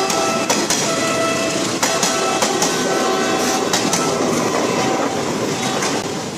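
203-series electric multiple unit commuter train rolling past at close range, its wheels clicking over the rail joints in an uneven clickety-clack. The noise fades near the end as the last car goes by.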